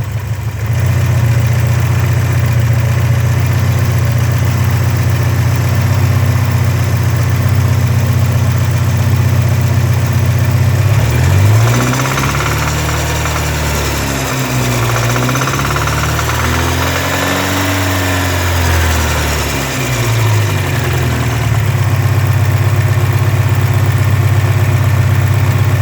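1984 Porsche 944's 2.5-litre SOHC inline-four running at idle, revved up and back down several times about halfway through, then settling back to idle. Under it is a knock that the owner cannot place between a stuck hydraulic lifter and rod knock, which goes away when the #3 plug wire is pulled and is here with the wire back on.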